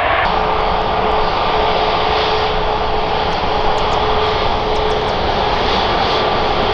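Jet engines of an Airbus A320neo-family airliner running steadily: a loud, even rushing noise with a steady tone held through it. The sound changes abruptly just after the start, then holds level.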